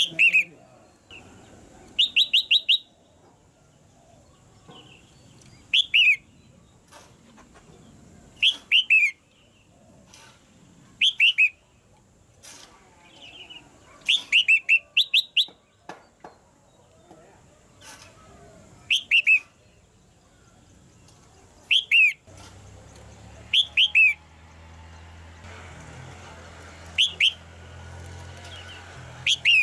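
Red-whiskered bulbul calling: short bursts of two to five sharp, downward-sliding chirps, repeated every two to three seconds. A low steady rumble comes in under the calls for the last several seconds.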